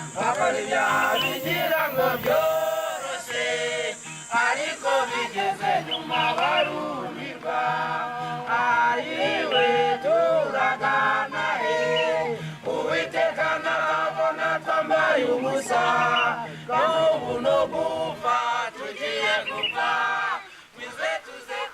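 A group of voices singing together, a choir-like song that runs on with little break.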